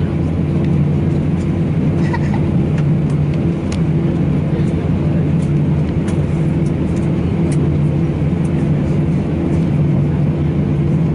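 Steady low hum and rumble inside the cabin of an Airbus A319 taxiing to the stand, its engines at idle.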